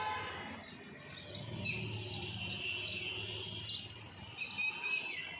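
Small birds chirping and twittering in quick, repeated short notes, over a steady low background hum.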